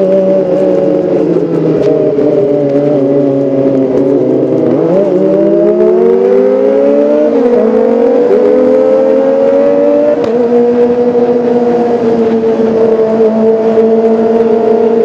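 Kawasaki ZX-25R's 250 cc inline four-cylinder engine running under way. The revs fall for about four seconds, then climb through two gear changes and hold steady for the last few seconds.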